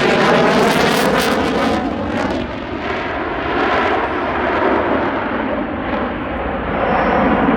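A fixed-wing airplane passing overhead with its engine noise loud and continuous. The roar is brightest in the first two seconds, then carries on slightly lower as the plane moves on.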